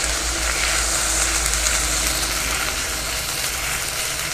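Onion paste frying in hot mustard oil in a kadai, with a steady sizzle as the spatula moves it around with cumin seeds and dried red chillies.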